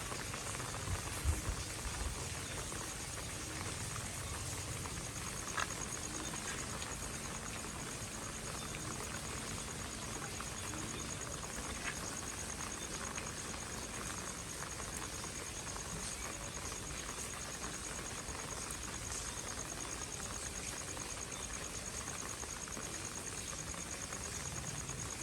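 Steady rain falling on a street pavement as an even patter, with a few low knocks about a second in and a couple of faint ticks later. A faint high steady tone comes in after about six seconds.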